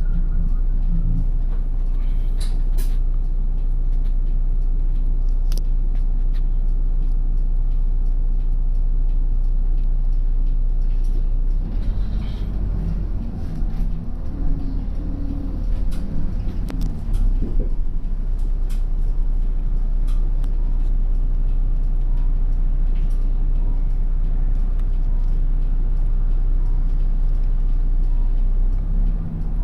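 Route bus's diesel engine running on the road, heard from inside the cabin, a steady low drone with scattered rattles and clicks. About twelve seconds in, the engine note shifts and wavers for several seconds before settling again.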